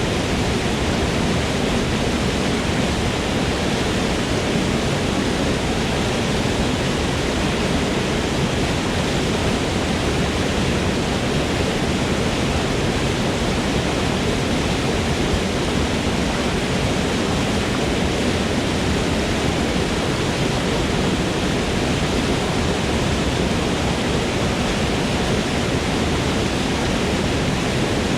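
Waterfall in a forest: a steady, unbroken rush of falling water.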